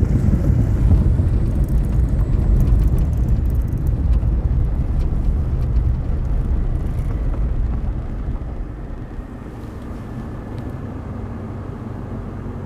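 A vehicle driving on a gravel road: a steady low rumble of tyres and engine that eases off about eight seconds in as the vehicle slows down.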